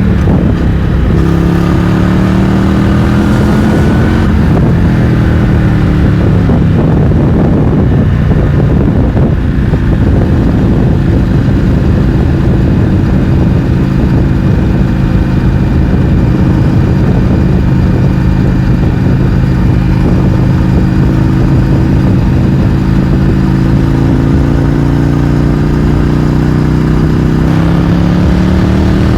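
Indian FTR 1200's V-twin engine through an Akrapovič exhaust with its baffles removed, ridden at road speed. The engine note climbs for a few seconds and drops back, holds steady at a cruise, then climbs again near the end.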